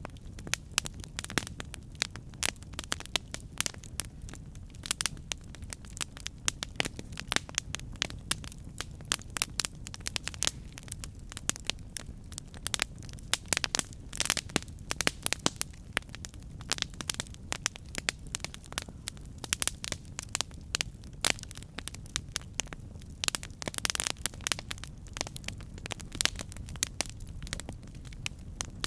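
Campfire burning steadily, with many sharp, irregular pops and crackles of burning wood over a low, steady rumble of flame.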